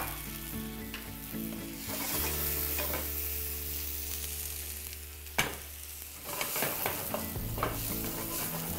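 Onions and ginger-garlic paste frying in hot oil in a frying pan, sizzling steadily as they are stirred, with a sharp knock about five seconds in.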